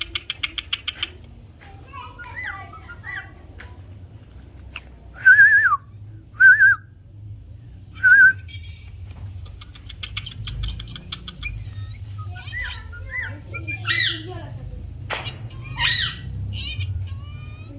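Pet parrots chattering and whistling: a quick run of clicks at the start, three loud short whistled notes in the middle, then harsh squawks near the end.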